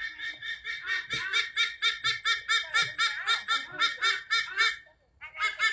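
A bird calling over and over in quick, even, high-pitched notes, about five a second, breaking off briefly near the end and then starting again; the calls sound to the listener like a parrot.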